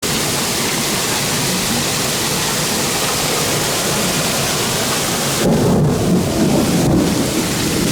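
Heavy thunderstorm rain pouring down with wind, a steady hissing downpour. About five and a half seconds in, a louder low rumble swells for a second or two, from thunder or a gust.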